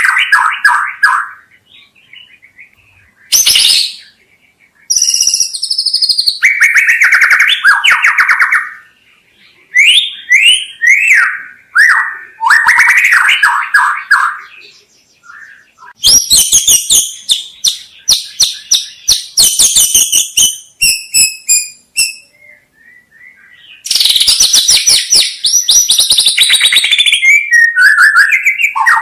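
White-rumped shama (murai batu) singing: varied whistled phrases and fast rattling trills, with two short pauses.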